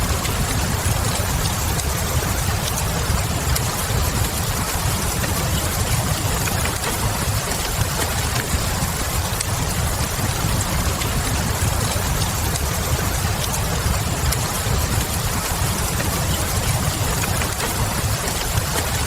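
Steady rain with a heavy low rumble, mixed with the faint, scattered crackle of a wood fire.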